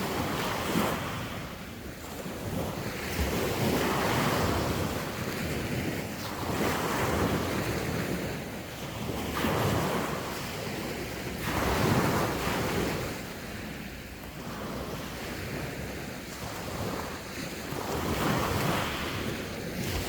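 Sea waves washing onto the shore, the surf swelling and falling back every two to three seconds, with wind buffeting the microphone.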